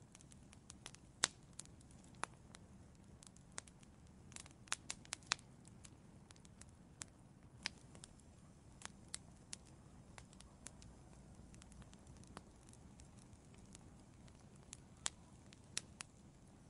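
Wood fire in an outdoor fireplace crackling, with sharp irregular pops over a faint low rumble of the flames, and a quick cluster of louder pops about four to five seconds in.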